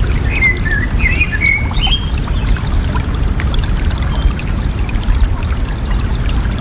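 Running water, trickling and splashing steadily, with a small bird singing a quick warbled phrase during the first two seconds and a faint short note near the middle.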